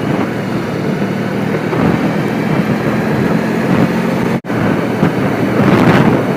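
Motorcycle engine running steadily while riding along, under a rush of wind and road noise. The sound cuts out for an instant about four seconds in.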